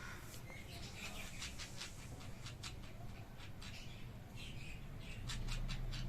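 Pet bird giving a run of soft, short, high chirps, a couple or so each second, over a low steady hum.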